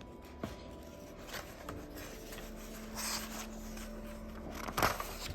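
Paper handling of a picture book being read aloud: soft rustles of pages, the clearest about three seconds in and a short swish near the end, over a faint steady hum.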